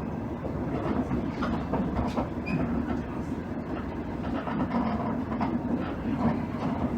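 Cabin running sound of a KiHa 110 series diesel railcar: a steady hum from engine and running gear, with the wheels clicking over rail joints now and then.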